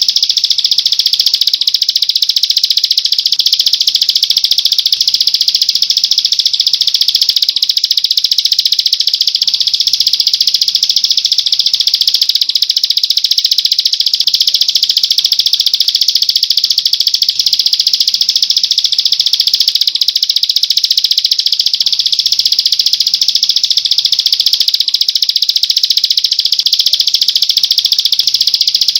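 A songbird's continuous, rapid, high-pitched buzzing trill, delivered without a break as a training call.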